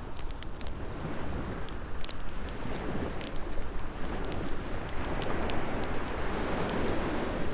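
Ocean waves washing in slow swells, mixed with a wood fire crackling and popping in scattered sharp snaps.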